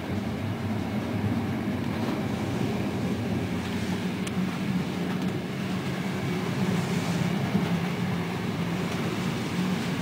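Passenger train hauled by an EU07 electric locomotive running along the track: a steady rolling rumble with a low, even hum.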